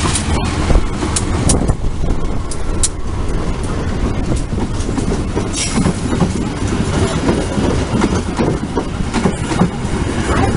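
Long-distance passenger train running past at close range: a loud, steady rumble of wheels on the rails, with scattered sharp clicks and knocks.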